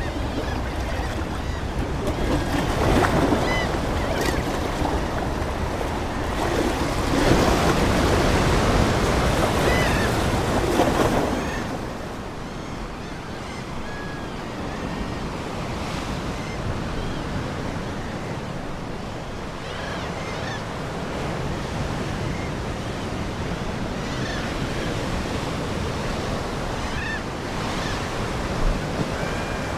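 Ocean waves washing onto a shore, with a loud surge of surf about seven to eleven seconds in and a lower steady wash afterwards. Seagulls call briefly now and then over the waves.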